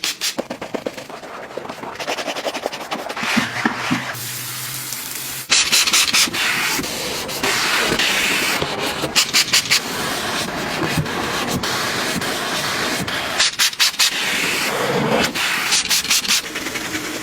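Rapid rubbing strokes, like scrubbing, that change abruptly a couple of times.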